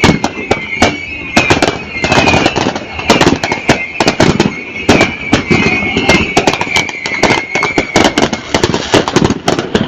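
Fireworks going off in a rapid, irregular string of bangs and crackles, with a high whistling tone that wavers and slowly falls through the middle of it.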